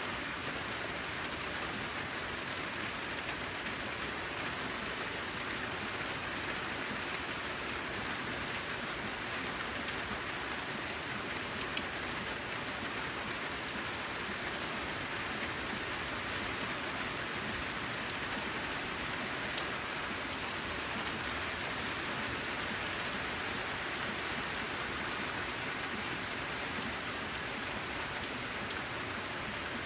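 Steady rain falling on a corrugated zinc sheet roof, an even patter with many separate drops ticking sharply through it.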